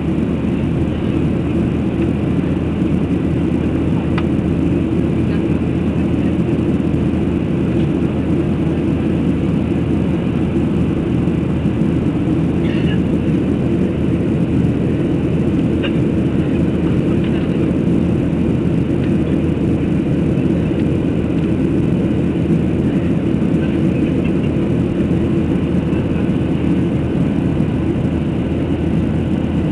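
Airplane noise during a takeoff: a loud, steady low rumble that holds unchanged throughout.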